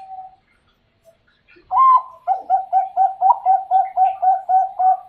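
Zebra dove (Bangkok perkutut) singing: a held note fades out, and after a short pause a rising opening note is followed by a quick run of short cooing notes, about four a second.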